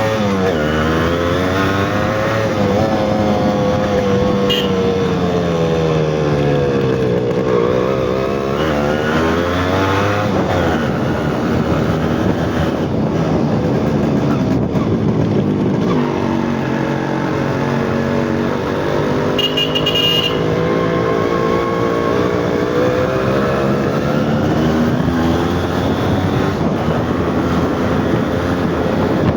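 Yamaha RX two-stroke single-cylinder motorcycle engine running, its pitch rising and falling repeatedly as it is revved and ridden.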